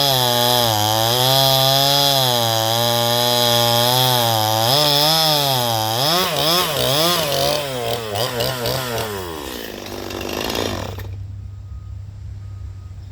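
Small chainsaw cutting at steady high revs, its chain dull from hitting a screw, then revving up and down in quick surges and dying away about ten seconds in. A low steady hum remains after.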